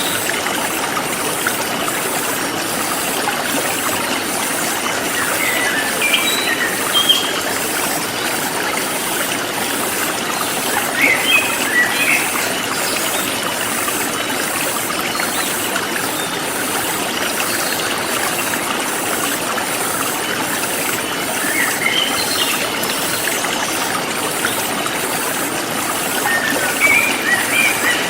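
Forest stream flowing steadily, with short bird chirps breaking in a few times over a high, evenly pulsing chorus of insects.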